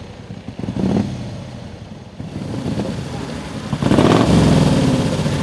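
Vintage racing car engine revving: a short blip of the throttle, then it builds and runs much louder and harder near the end.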